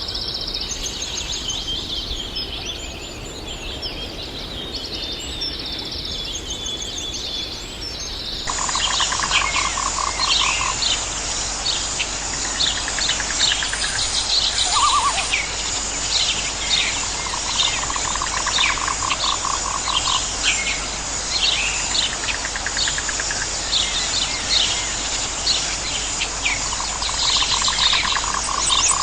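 Outdoor chorus of many birds chirping and calling, with repeated pulsed trills lasting a second or two each joining after the sound changes to a new recording about eight seconds in.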